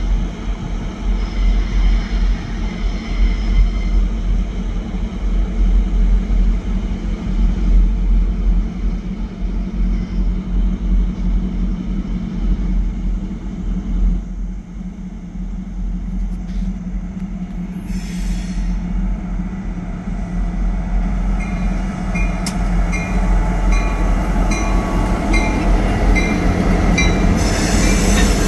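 Norfolk Southern diesel freight locomotives rolling slowly past around a curve, a steady low engine rumble growing louder as they draw near. Wheels squeal on the curved track, and a regular high clinking comes about one and a half times a second in the last several seconds.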